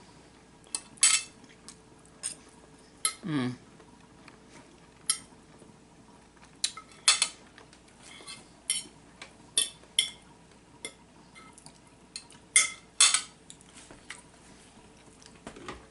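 Fork and knife clinking against a plate while a serving of beef stroganoff is cut and eaten: short, sharp clinks at an irregular pace, about one or two a second, with a brief falling-pitch sound about three seconds in.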